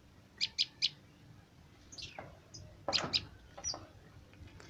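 Small bird chirping: three quick, sharp, high chirps about half a second in, then scattered single chirps, with a brief rustle near three seconds.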